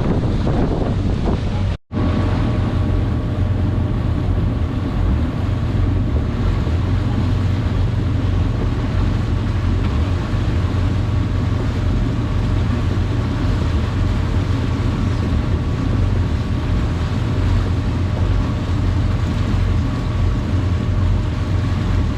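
Motorboat engine running steadily, with wind buffeting the microphone and water rushing past the hull. The sound cuts out for an instant about two seconds in.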